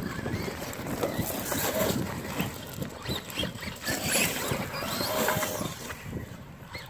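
Traxxas Rustler VXL RC trucks driving through wet mud, their electric motors whining and rising and falling with the throttle as the tires churn and splash.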